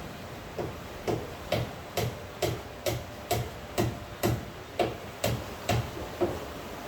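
A run of about thirteen sharp, evenly spaced knocks, roughly two a second, that starts about half a second in and stops about a second before the end, over a steady hiss of rain.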